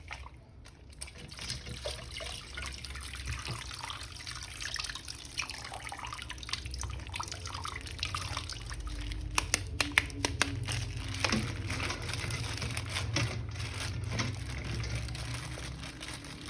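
Water running and splashing as a toy action figure is washed, with a few sharp clicks or knocks about two-thirds of the way through.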